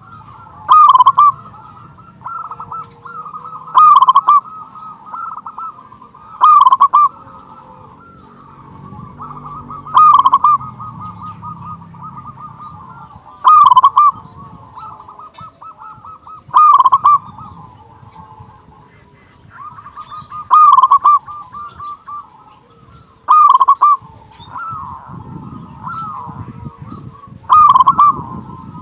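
Zebra doves (local perkutut) cooing: a loud male call in full song is repeated nine times, about every three seconds, over steady softer cooing from other doves.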